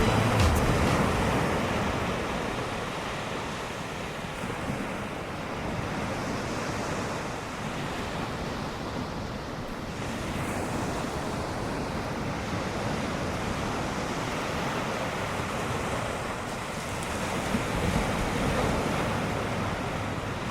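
Ocean surf: waves breaking and washing in a steady rush, with wind.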